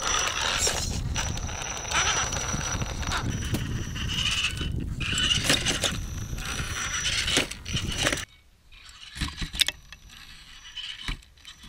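A radio-controlled rock crawler clambering over rock: tires scrabbling and scraping and the chassis clattering, with a thin steady high whine from its electric drive. About eight seconds in the noise drops away, leaving a few scattered clicks and knocks.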